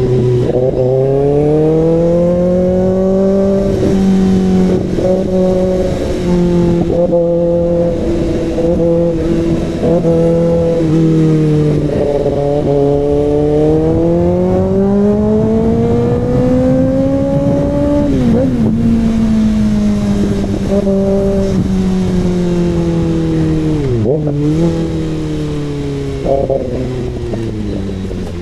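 Kawasaki ZX-6R inline-four engine through an SC Project CRT exhaust, running under way with revs climbing and falling smoothly several times and a few sudden steps in pitch as the gears change.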